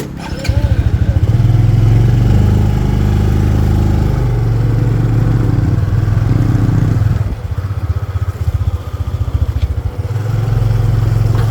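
Motorcycle engine running, coming in loud about half a second in with a fast, even firing beat, easing off around seven seconds and picking up again near ten seconds.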